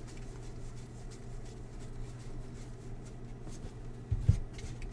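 Faint handling of baseball trading cards: soft clicks and rustles as cards are slid and flipped, over a steady low hum, with one dull thump about four seconds in.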